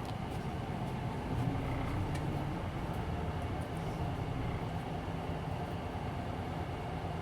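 Interior sound of a Hino Blue Ribbon City Hybrid city bus, its diesel engine running with a steady low hum under the cabin noise, swelling slightly about a second and a half in.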